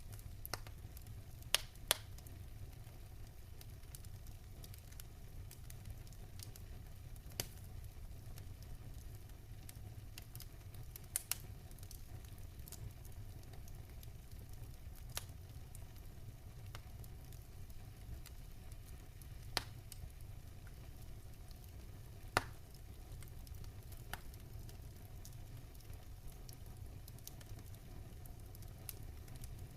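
Wood fire burning in a fireplace: a steady low rumble with scattered sharp crackles and pops from the logs, a few louder ones standing out, among them two close together about a second and a half in and one about twenty-two seconds in.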